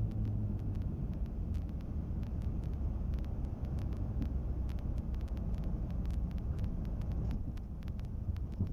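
Twin-engine Cessna 310 heard from the cabin during landing. The steady engine drone drops away about half a second in, leaving a low rumble with many scattered clicks and knocks.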